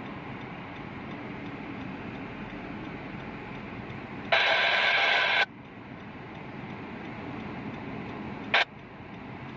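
CSX freight train of autorack cars rolling past a grade crossing, a steady noise, heard from inside a car. About four seconds in, a loud harsh blast starts and stops abruptly after about a second, and a much shorter one comes near the end.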